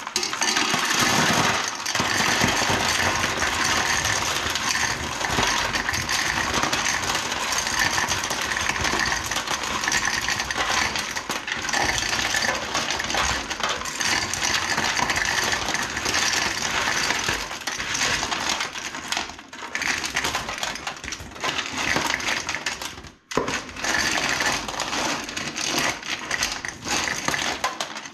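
Gravel stones rattling and scraping around inside a steel generator gas tank as it is shaken hard, scouring rust and scale from the inside of the tank. A dense, continuous clatter with a couple of brief pauses.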